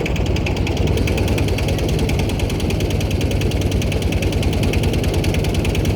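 An engine running steadily, a low hum with a fast, even knocking throughout.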